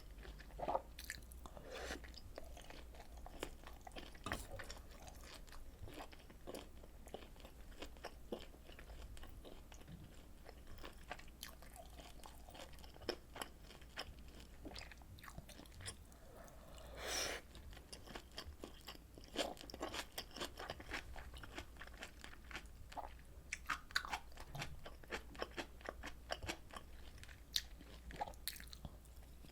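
Close-miked eating sounds of a person chewing and crunching rolled omelet and pork kimchi stew: many small wet clicks and crunches, with one longer, louder noisy mouth sound a little past halfway.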